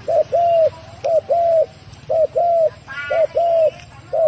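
A male turtle dove cooing: four short-then-long two-note coos, repeated evenly about once a second. A fainter, higher chirping call comes from another bird about three seconds in.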